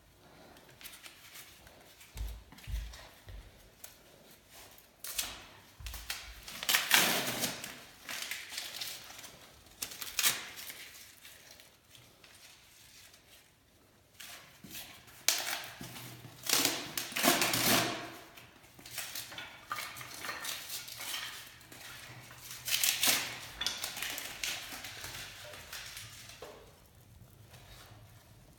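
Irregular clinks, knocks and scraping from things being handled at a fireplace as it is being lit, with several louder rustling bursts about a second long.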